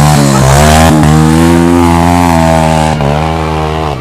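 Motorcycle engine revving hard under load as a rider climbs a steep hill. The revs dip briefly near the start, then rise and hold high until the throttle drops just before the end.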